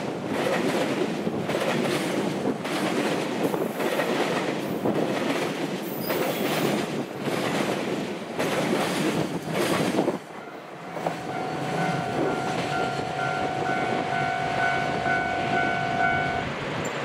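Container freight train wagons passing close at speed down a steep grade, with loud rumble and rhythmic clatter of wheels over the rails. About ten seconds in the sound drops, and a steady ringing tone with overtones holds for about five seconds over the fainter rumble of the train in the distance.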